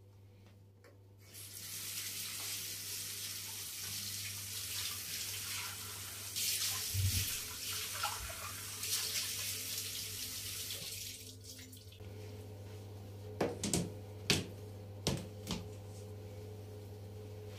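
Kitchen tap running into the sink for about ten seconds, then turned off, followed by a few sharp knocks.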